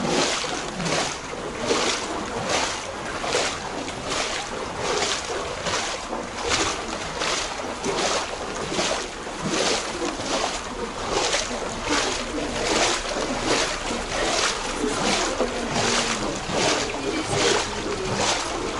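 Footsteps wading through shallow floodwater, a regular splash about one and a half times a second.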